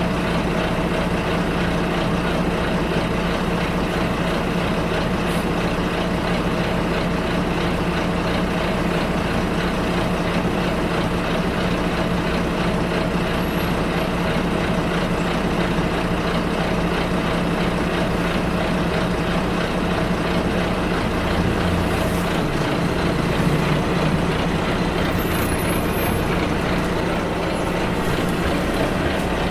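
Bus riding along, heard from inside: steady engine drone and road noise. The engine note shifts about two-thirds of the way through, and faint high squeaks come near the end.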